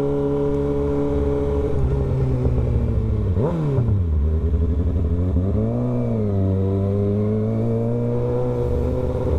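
Kawasaki ZX-6R's inline-four engine running at a steady pitch while the bike is ridden. About three and a half seconds in the revs drop sharply and jump straight back up, and about six seconds in they briefly rise and fall again.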